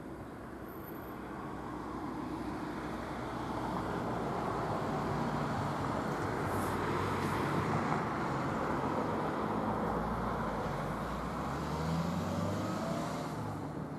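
A train approaching along the line: a rumbling noise that grows louder over the first few seconds and then holds steady, with a faint rising whine near the end.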